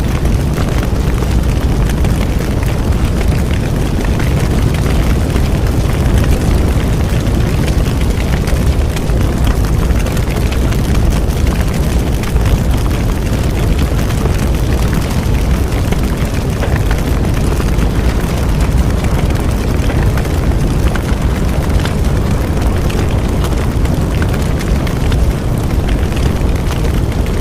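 Large bonfire burning with a steady low roar and constant fine crackling of the wood.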